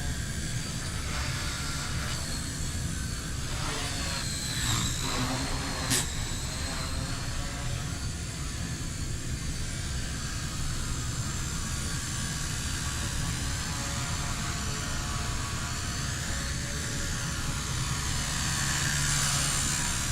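XK K110s micro RC helicopter's motors and rotor running at low head speed, a steady hum with a high whine that rises and falls in pitch. A single sharp click about six seconds in.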